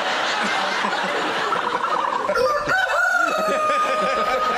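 Recorded ostrich call played back, mixed with audience laughter. A steady, held high note comes in about two and a half seconds in.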